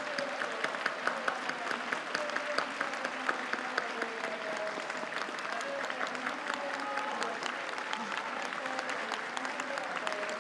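Crowd applauding with dense, steady clapping and a few voices mixed in.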